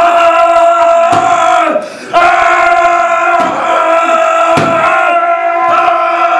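Loud, sustained yelling by voices held on one steady pitch, breaking off briefly about two seconds in.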